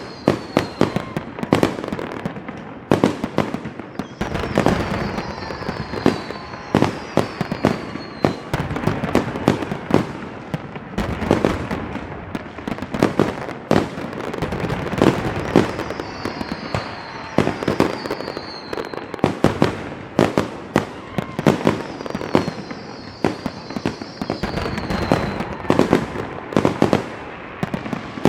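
Fireworks going off in quick succession: many sharp bangs and crackles, with several short, high whistles that fall in pitch.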